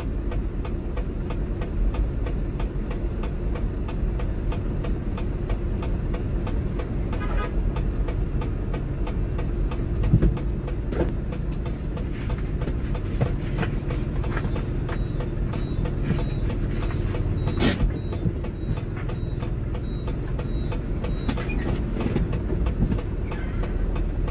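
Heavy truck running steadily with a low rumble and a constant hum, the cab rattling and clicking throughout, and one sharp knock about two-thirds of the way through.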